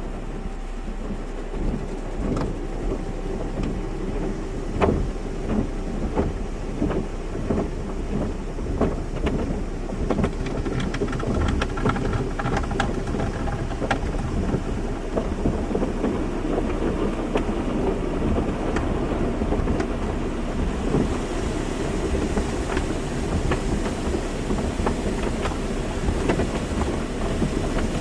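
Automatic car wash running: water spray and brushes drumming and slapping against a car, over a steady machine hum. The spray gets louder and hissier about three quarters of the way through.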